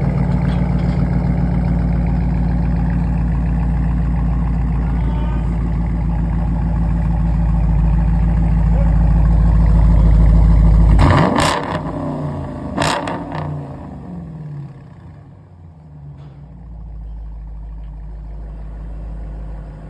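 Dodge Challenger R/T's 5.7-litre HEMI V8 running with a deep, loud rumble through straight pipes, the resonators and muffler removed. About eleven seconds in it is revved in two sharp blips a second and a half apart, then drops back to a quieter idle.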